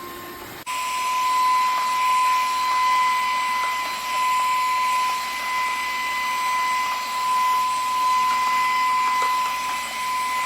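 Dreame H12 Pro cordless wet-dry vacuum mop running: a steady high-pitched motor whine over the hiss of its suction, cutting in abruptly about half a second in.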